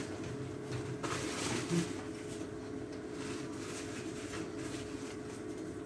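Quiet chewing of a mouthful of garlic bread, with soft scattered crunches and rustles, over a steady faint hum.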